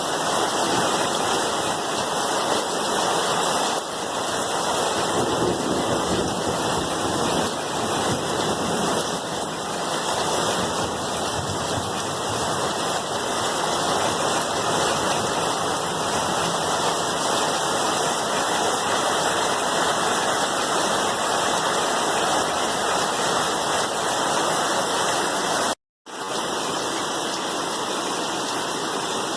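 Steady, dense rainfall, an even wash of noise with no separate drops standing out. It cuts out completely for a split second near the end, then comes back slightly quieter.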